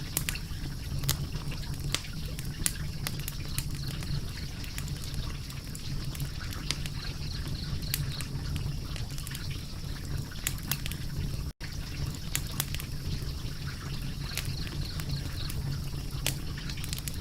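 Crackling fire: irregular sharp pops and snaps over a steady low rumble, with a split-second gap about two-thirds of the way through.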